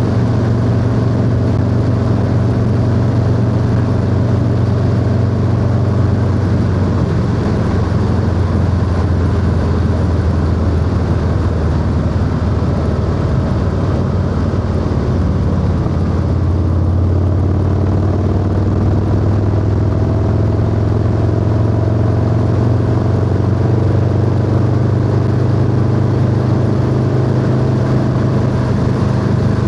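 Harley-Davidson Low Rider S V-twin engine running steadily at road speed, with wind noise over it. The engine note eases a little around the middle, then holds steady again.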